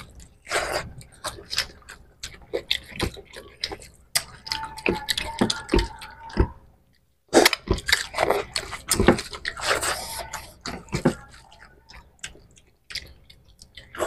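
Close-up eating sounds of rice and fish curry being eaten by hand: irregular wet chewing, lip smacks and clicks, with fingers squishing through the rice. The sounds break off briefly about seven seconds in.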